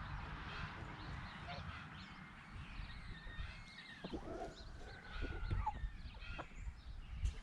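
Backyard poultry calling: scattered short clucks and chirps, with one longer arching call about four seconds in, over a low rumble.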